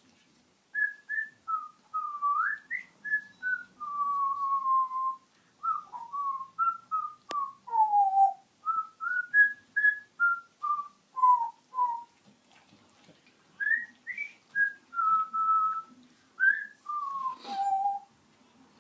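A pet parrot whistling a tune: a string of clear, pure whistled notes that slide up and down in pitch, in three phrases with short breaks between them. A single sharp click about seven seconds in.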